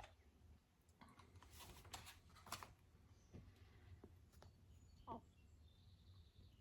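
Near silence: room tone with a few faint clicks and soft rustles.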